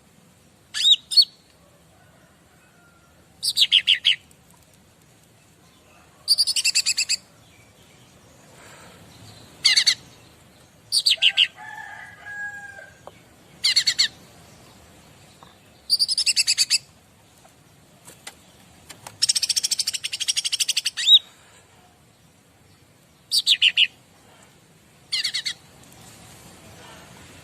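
Cica ranting songbird calling: short, rapid, high-pitched trilled phrases repeated every two to three seconds, with one longer trill about two-thirds of the way through. A fainter, lower bird call sounds briefly near the middle.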